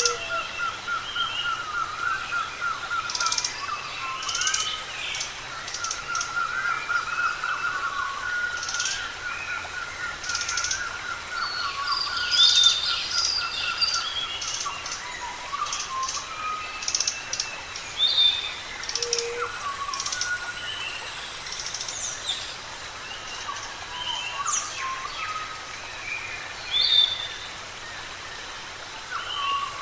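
Several birds calling together, with overlapping chirps, whistles and short notes. A long, fast warbling trill runs through the first third. A thin, steady high buzz lasts about three seconds past the middle.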